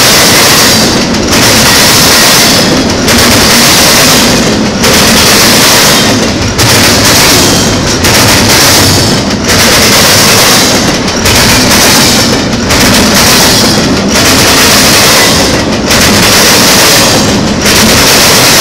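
Loud rushing and clattering of a double-stack intermodal freight train's well cars passing close by, the noise dipping briefly about every one and a half to two seconds as each car goes past.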